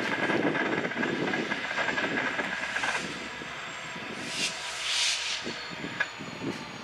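A train rolling past on the rails, with a steady high-pitched tone over the rumble for the first three seconds, then two short hisses about four and a half and five seconds in.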